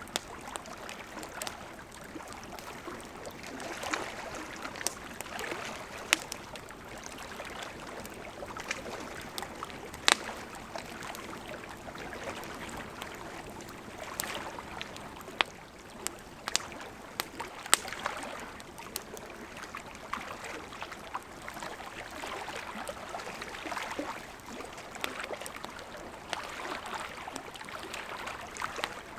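Campfire crackling, with sharp pops scattered irregularly throughout, over the steady rush of a gently flowing river.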